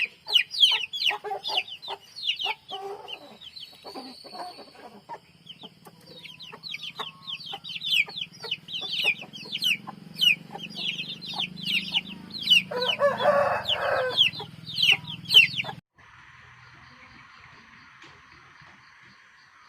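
Aseel chickens calling: constant rapid, high, falling chirps with clucking, and a longer rooster call roughly two-thirds of the way in. About three-quarters of the way through it cuts abruptly to a quieter steady hiss.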